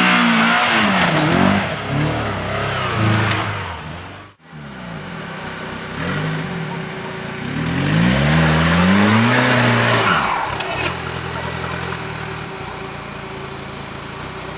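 Off-road 4x4 engine revving up and down hard under load, cut off abruptly about four seconds in. It then revs up and down again before settling to a steadier, lower running sound near the end.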